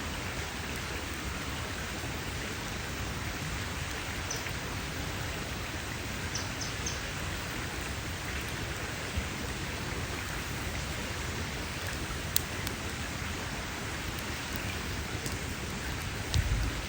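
Wood campfire burning with a steady hiss and scattered sharp crackles and pops. A low thump comes near the end.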